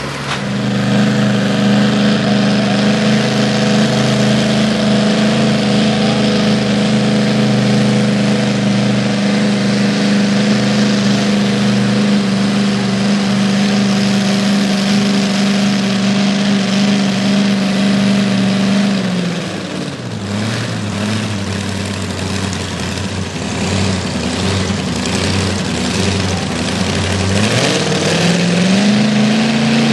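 A pulling truck's engine running at high, steady revs under load as it drags the pulling sled, then dropping to a low idle about two-thirds of the way through as the pull ends. Near the end the revs climb again.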